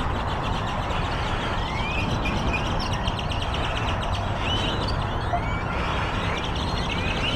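Birds chirping over a steady vehicle rumble: many short rising chirps throughout.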